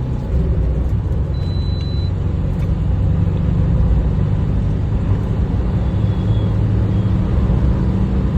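Mahindra Bolero's 1.5-litre three-cylinder diesel engine pulling hard under full throttle as the SUV accelerates, a steady low drone. A short high tone sounds about one and a half seconds in.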